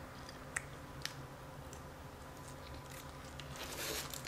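Quiet eating sounds of someone chewing fried mojarra fish, with a couple of light clicks about half a second and a second in. Near the end a crinkling of wrapping starts up.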